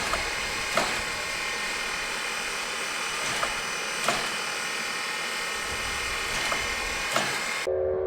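Steady hiss and machine hum from a standing steam locomotive, with a few sharp clicks. Near the end the sound cuts off suddenly and a steam locomotive's whistle begins to blow, a chord of several steady tones.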